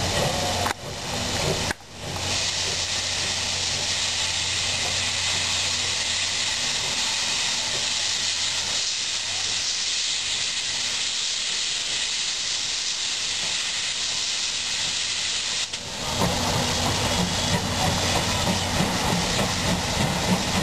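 C58 steam locomotive venting steam in a loud, steady hiss. The hiss stops about 16 seconds in and a rougher, lower rumble of the locomotive takes over.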